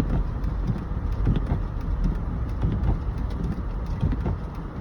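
Car cabin noise while driving on a snowy road: a steady low rumble with irregular soft thumps.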